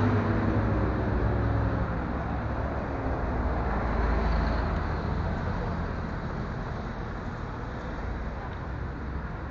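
Road traffic: a passing motor vehicle's engine drops in pitch as it goes by in the first second, then a steady traffic rumble that slowly fades.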